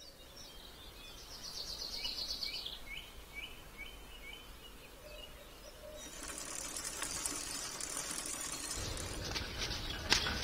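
A songbird singing: a fast trill, then a run of about seven short down-slurred chirps. A few seconds in, a steady high hiss of outdoor ambience rises, with low rumble and a few sharp clicks near the end.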